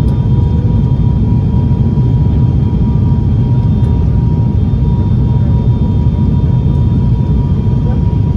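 Cabin noise inside an ATR 72 turboprop airliner: the engines and propellers make a steady, loud low rumble, with a thin steady high tone running through it.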